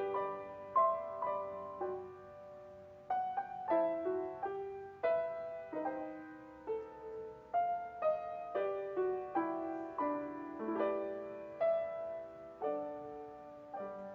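Solo piano playing a slow, gentle piece, with single notes and chords struck about once or twice a second and left to ring and fade: a prelude before the service.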